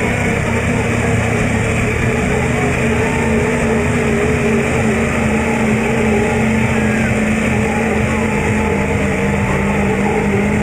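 Loud truck engines running steadily over a dense background din, with no clear revving.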